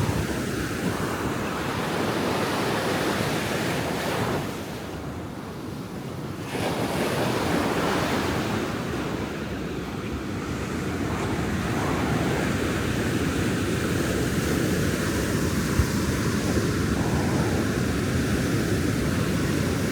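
Ocean surf breaking and washing up a sandy beach: a steady rush of waves that eases for a moment about five seconds in and then swells again. Wind buffets the microphone.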